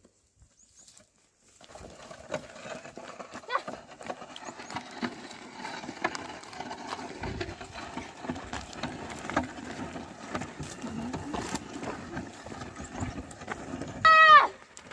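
Ox plough team working a field: uneven hoof steps, scraping and small knocks. There is one short loud call near the end, and the sound is near silent for the first second and a half.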